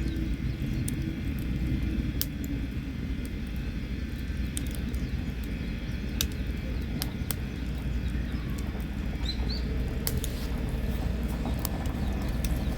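Wood campfire burning, with scattered sharp crackles and pops over a low steady rumble. A bird chirps briefly about nine seconds in.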